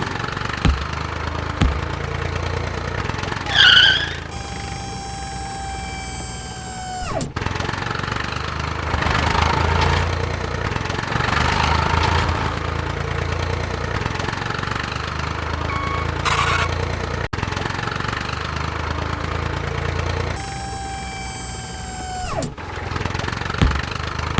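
Small engine running steadily, the sound effect for a mini tractor. Twice a high whine sounds for about three seconds and drops in pitch as it cuts off.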